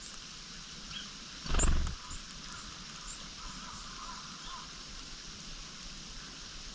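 Faint, scattered high calls of small wild birds over a steady background hiss, with one brief low rumble on the microphone about a second and a half in.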